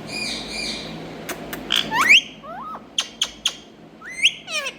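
Indian ringneck parakeet calling: a run of short squawks and whistles that glide sharply up or down in pitch, mixed with several short sharp clicks.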